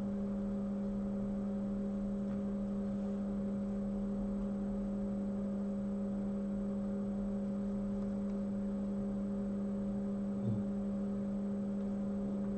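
Steady electrical hum at one constant low pitch with a few overtones, with a brief faint low bump about ten and a half seconds in.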